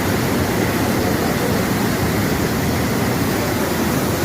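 Floodwater rushing in a steady, loud, unbroken roar.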